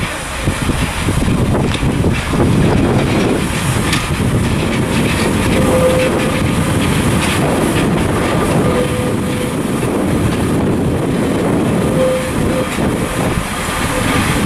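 Northern Rail diesel multiple unit running past at low speed, its wheels clicking over rail joints and pointwork over a steady rumble. A short steady whine sounds now and then, every few seconds.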